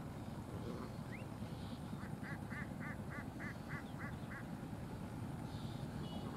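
A bird calling eight times in quick succession, about three calls a second, over a steady low rumble.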